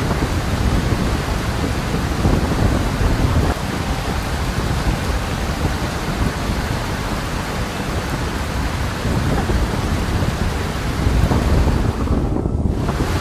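Steady heavy rain with a deep rumble underneath. About a second before the end the rain hiss briefly drops away, leaving only the low rumble.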